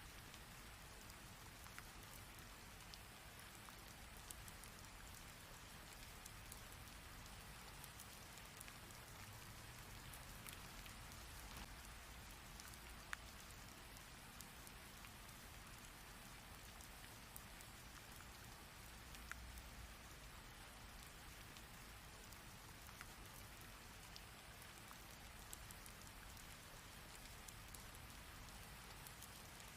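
Rain falling steadily, faint, with scattered sharp ticks of single drops striking a surface, one louder tick about halfway through.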